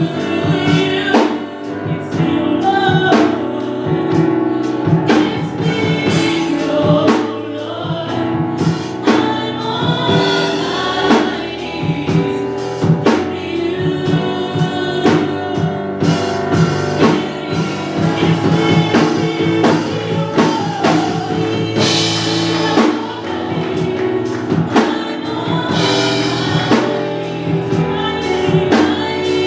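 Live gospel music: a group singing over a band with a drum kit keeping a steady beat.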